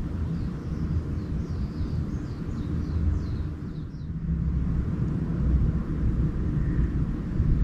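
A small bird sings a quick run of about ten high notes that slip lower toward the end. Under it runs a steady low rumble.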